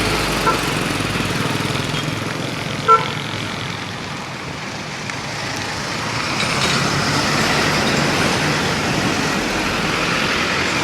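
Steady road-traffic noise with a vehicle horn giving a short toot about three seconds in, and a fainter blip about half a second in.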